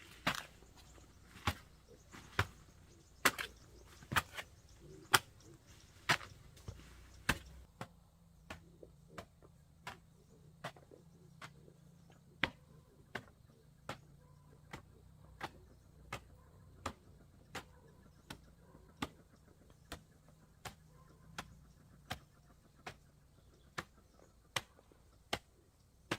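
Repeated sharp chopping strikes on wood, denser and louder in the first eight seconds, then settling into a steady rhythm of about one strike every 0.7 seconds.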